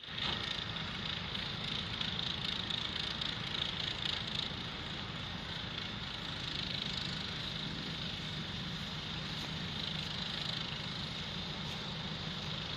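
A vehicle engine running steadily, a low rumble under a constant hiss.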